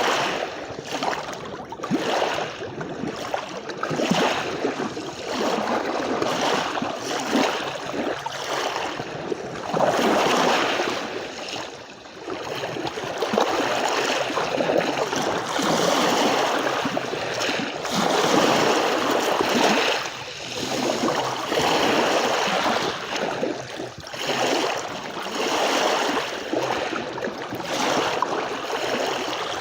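Sea waves washing onto a beach, the surf swelling and falling back every few seconds.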